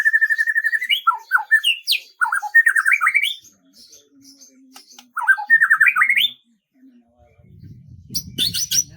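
A songbird singing: a fast, even trill on one pitch that ends about a second in, followed by two phrases of quick slurred, rising chirps. Near the end a low rumble sounds under a few brief high notes.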